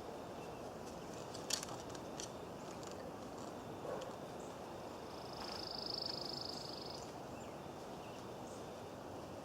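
Steady outdoor background noise with a few faint clicks, and a high, rapidly pulsing trill lasting about two seconds from about five seconds in.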